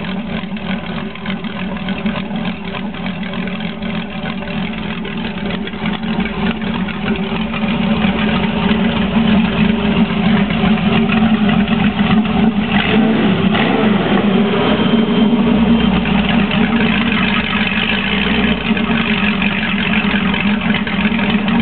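2006 Corvette LS2 6.0-litre V8, stock with 31,000 miles, running steadily at idle; it runs perfect. It gets somewhat louder about a third of the way in.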